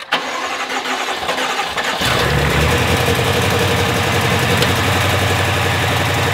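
The rebuilt BMW F10 M5's S63 twin-turbo V8 cranks on the starter for about two seconds, then catches about two seconds in and settles into a steady idle. This is the freshly built engine's first start, and it starts cleanly.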